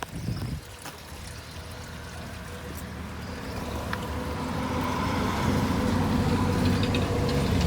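Honda CBR600RR inline-four running through a Termignoni titanium exhaust, a low engine note that grows steadily louder over several seconds.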